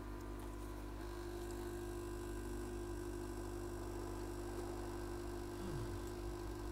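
Steady low electrical hum over a faint, even hiss from running workbench equipment, with a brief faint falling tone about six seconds in.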